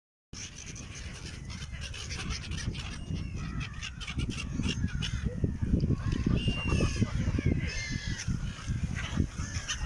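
A flock of gulls calling: many short, overlapping cries, busier from about five seconds in, over a low rumble.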